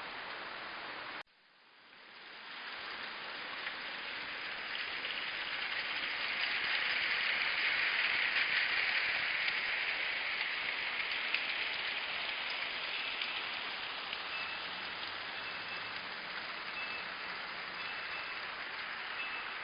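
Battery-powered New Bright G-scale toy train running on its track, its motor and wheels making a steady hissing clatter. The sound cuts out abruptly about a second in, then builds up to its loudest about eight seconds in as the train passes and eases off a little. From about thirteen seconds a faint high beep repeats in short pulses.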